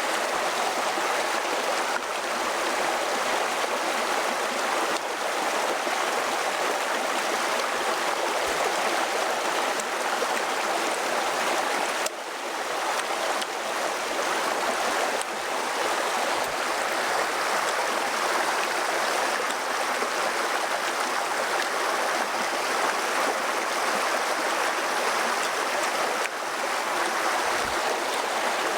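Steady rushing of running water, like a stream flowing, continuing unchanged through several small breaks.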